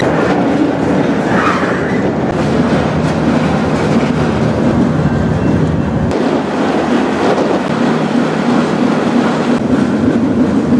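Freight train rolling out of a yard, heard from aboard an open gondola car: a steady rumble and rattle of the moving car. The deepest rumble drops away suddenly about six seconds in.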